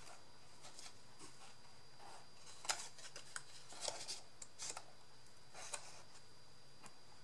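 Scissors snipping paper, in short irregular cuts with light paper rustling between them.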